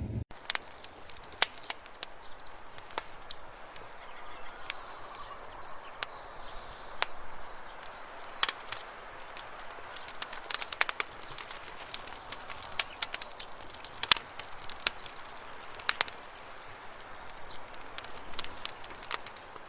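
Outdoor ambience: faint bird chirps over a steady hiss, with many scattered sharp clicks and crackles throughout.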